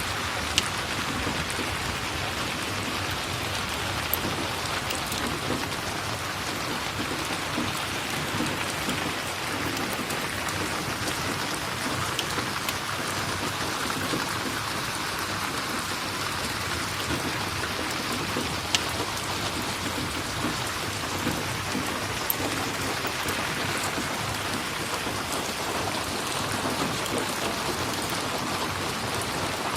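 Steady, even rain falling on a surface, with a few sharp single pops scattered through it.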